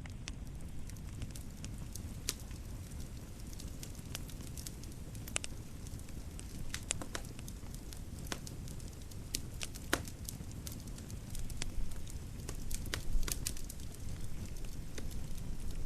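Wood fire in a fireplace crackling, with scattered sharp pops over a low steady rumble. The pops come a little louder and thicker near the end.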